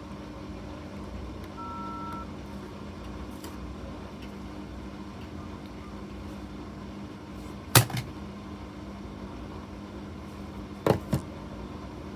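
Bosch front-loading washing machine running with a steady hum. A short, faint high tone sounds about two seconds in, and two sharp double clunks come later.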